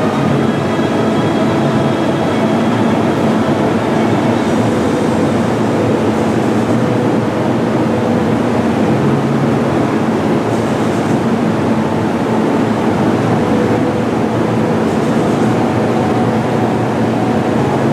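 Steady, loud rumble of a train running on rails, with no pauses or sudden changes.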